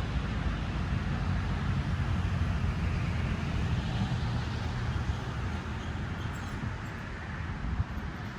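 Ocean surf with wind buffeting the microphone, a steady low rumble and wash that swells a little and then eases.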